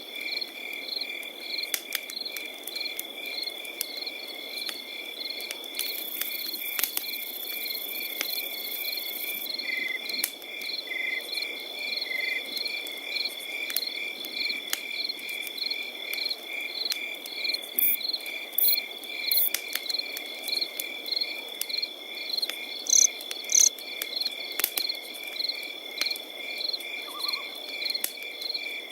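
Crickets chirping in a steady night chorus: one continuous high trill and rhythmic chirps about three a second, over scattered crackles of a campfire.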